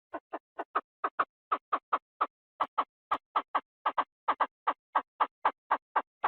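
Chinese francolin calling: a fast run of short, clipped notes, about four a second, growing louder after the first second.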